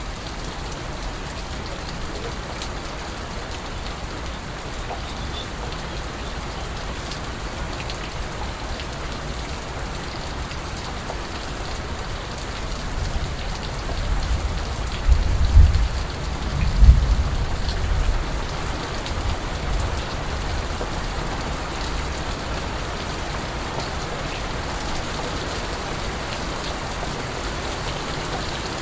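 Steady rain falling, an even hiss of many drops. About halfway through, a deep low rumble swells for a few seconds, peaking twice, then fades back under the rain.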